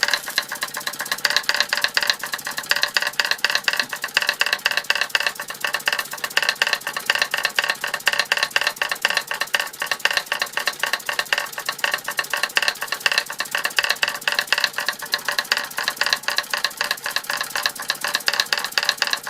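1905 Fritz Neumeyer toy steam engine running steadily and driving model Martinet steam hammers: a rapid, even clatter of small mechanical strikes over a steady whir.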